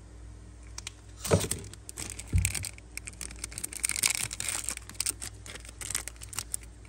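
A metal Zippo lighter being handled: a run of sharp metallic clicks and clacks, with two louder knocks about a second and two and a half seconds in and a busier patch of clicking and rubbing in the middle.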